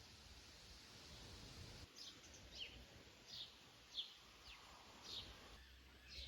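Faint bird calls: a run of short, high chirps, each falling in pitch, about one or two a second, starting about two seconds in over a faint steady hiss.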